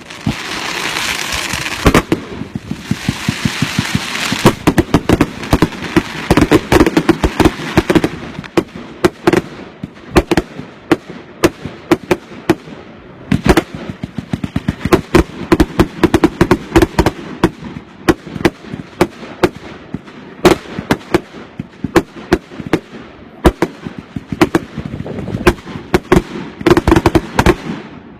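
Consumer firework barrage cakes firing: a continuous run of sharp bangs and cracks, several a second, with a hissing rush over the first eight seconds or so.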